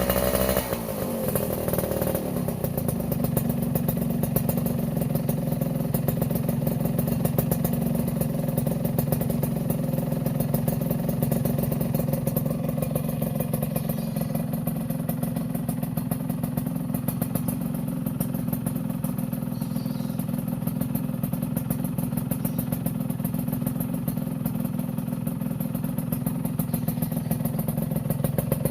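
Suzuki Satria 120 two-stroke single-cylinder motorcycle with a 'standar racing' aftermarket exhaust. Its revs fall away in the first two seconds, then it idles steadily through the exhaust.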